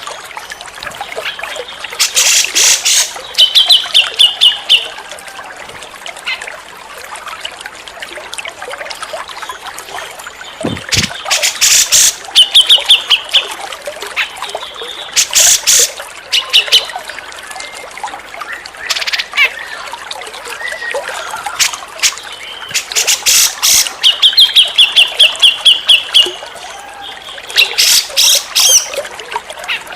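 Cucak jenggot (brown-cheeked bulbul) singing loud phrases every few seconds, each a fast run of repeated notes, over a steady trickling stream.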